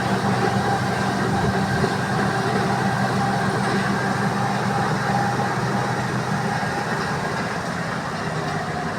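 A vehicle's engine running steadily, a low drone with a faint whine above it.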